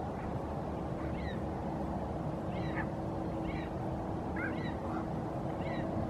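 A steady low background rumble with a faint steady hum, over which short, faint bird calls come about once a second.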